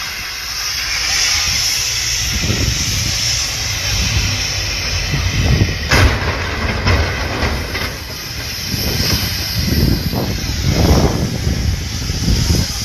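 Steady rushing, hissing highway noise with a heavy low rumble that swells and fades, and a sharp knock about six seconds in.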